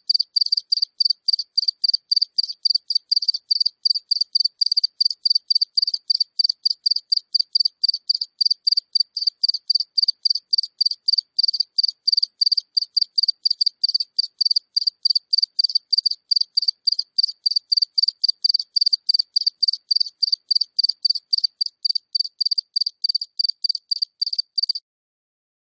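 A single cricket chirping close up: a steady, even run of short high chirps, about three to four a second, that stops shortly before the end.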